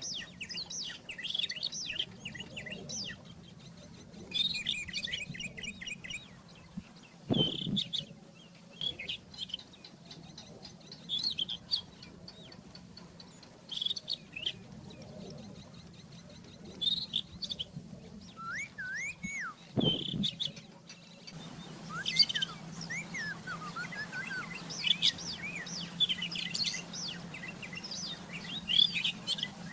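Rufous-tailed scrub robin singing: short phrases of quick, varied warbling and gliding notes, repeated with brief pauses between them. A faint steady low hum lies underneath, and two short thumps break in, about a third of the way in and about two-thirds of the way in.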